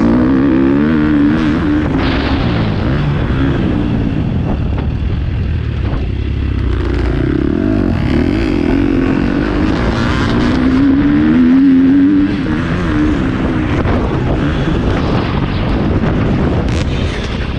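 Motocross dirt bike engine revving up and falling back again and again as it is ridden around the track, with a steady rush of wind noise.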